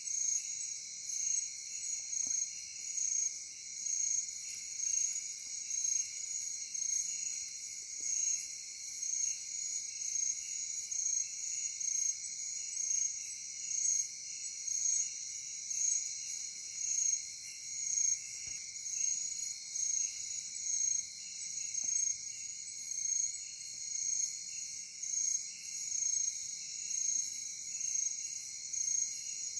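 Night insect chorus: crickets and other insects trilling steadily, with one high-pitched call pulsing every second or so.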